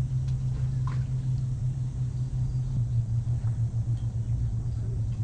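A motor running with a steady low hum, its level wavering slightly.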